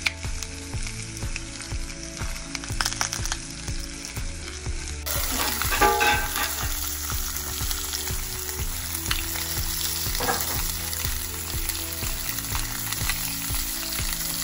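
Salmon fillets sizzling in a hot, greased cast-iron grill pan, a steady frying hiss with scattered crackles and pops. The sizzle shifts about five seconds in.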